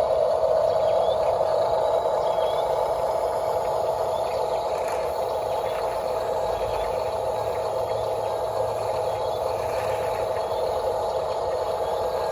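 Small electric motor and gearbox of an RC toy construction vehicle running with a steady hum.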